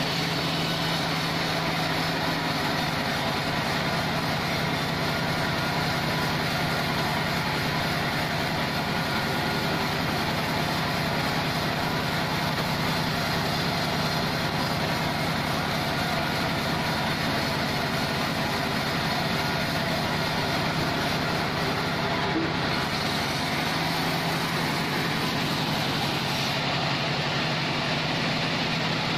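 Band sawmill running steadily: a constant engine-like hum under a continuous mechanical whir.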